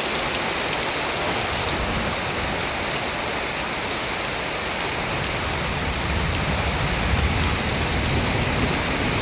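Steady heavy rain falling: an even, unbroken hiss of downpour.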